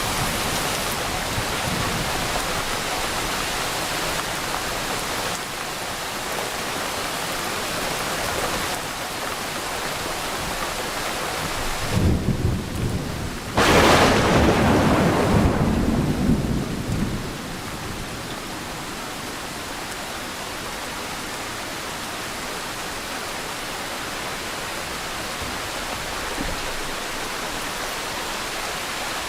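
Steady rain hissing throughout. About halfway through, thunder: a short low rumble, then a sudden loud crack, followed by rumbling that fades over a few seconds before only the rain is left.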